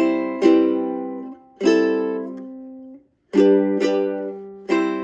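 Ukulele strummed slowly, one chord at a time, about six strums that each ring out, with a short break near the middle for a chord change. These are the song intro's C major, C major 7, A minor 7 and G chords.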